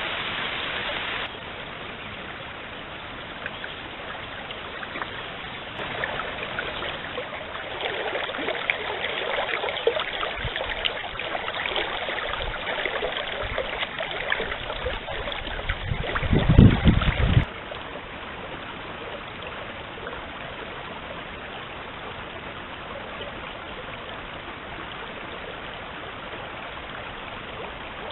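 Forest stream running: a steady rush of water that changes abruptly a few times. It is louder and busier through the middle stretch, with a brief low rumble about two-thirds of the way through.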